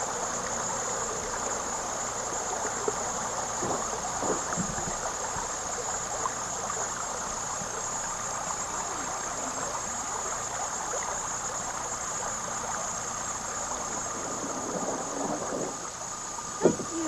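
Steady rush of flowing river water, with faint voices now and then.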